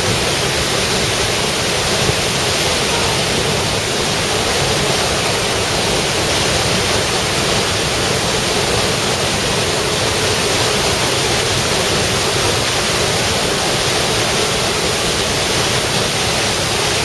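Waterfall roar: a steady, dense rush of falling water.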